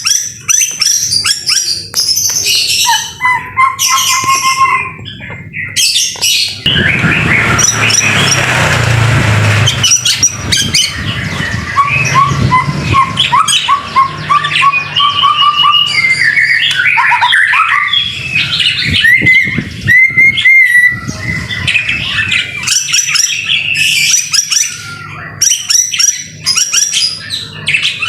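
White-rumped shama singing without pause: a fast, changing string of whistled phrases, chirps and trills, with a few seconds of harsh noise mixed in about seven seconds in.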